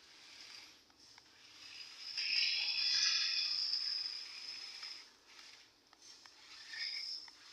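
Small electric motors and gearboxes of toy RC vehicles whining as they strain against each other in a tug of war. The whine swells about two seconds in, fades out by about five seconds, and briefly returns near the end.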